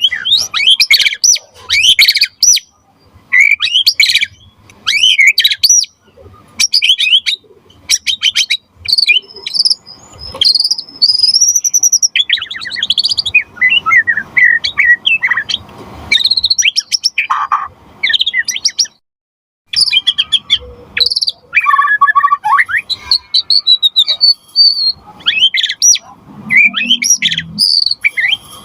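White-rumped shama singing a long, varied song: fast chattering trills and sliding clear whistles in quick phrases separated by short pauses.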